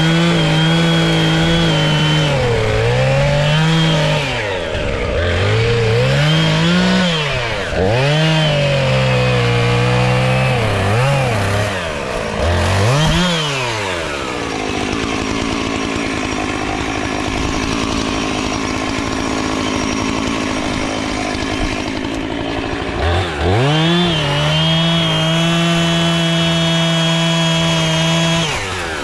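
Two-stroke chainsaw revving up and down repeatedly, then dropping to a lower, rougher note for several seconds midway while cutting into wood, before running at a steady high rev again near the end.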